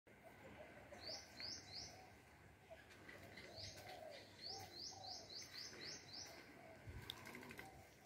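Faint birdsong: quick runs of short, high chirps, three about a second in and a longer run of about eight in the middle, over softer, lower calls. A soft thump comes near the end.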